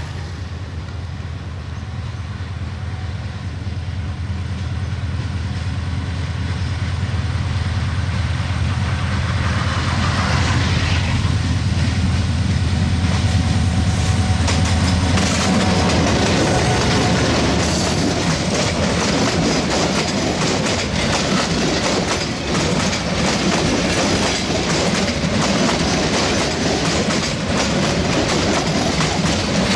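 Metre-gauge diesel locomotive approaching and passing close by, its engine drone growing louder until it goes by about halfway through. Then a long train of passenger coaches rolls past with a steady clickety-clack of wheels over the rail joints.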